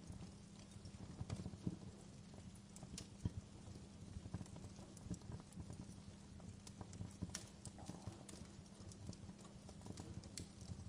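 Wood fire crackling, with sharp pops and snaps at uneven intervals over a low, steady rumble.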